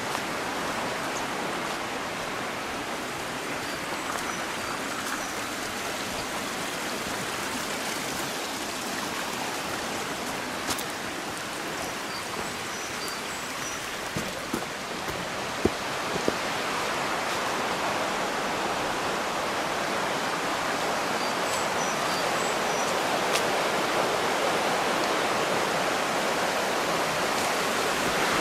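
Steady rush of a mountain stream, growing a little louder in the second half, with a few faint high chirps and light knocks.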